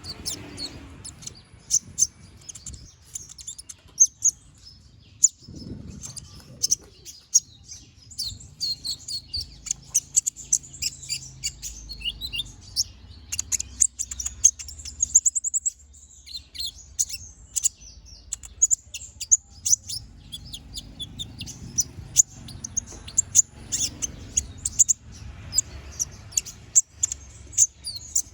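Kolibri ninja (konin) sunbird singing a fast, chattering song of sharp, high-pitched chirps and twitters, with a brief lull about halfway through.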